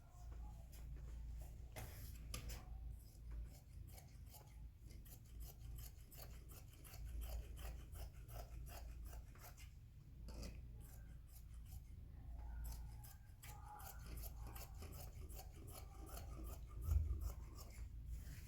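Scissors snipping again and again in quick strokes, cutting cloth, with a single thump near the end.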